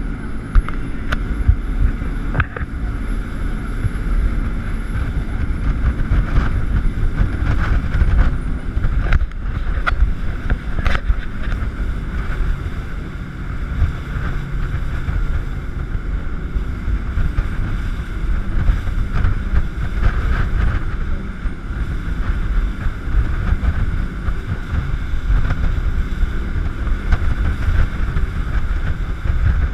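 A 1,500-horsepower jet boat running at speed, a continuous loud rumble, with wind buffeting the microphone and water rushing and splashing against the hull, plus scattered sharp knocks.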